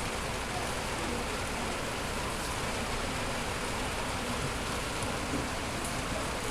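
Steady rain falling, an even hiss that holds constant.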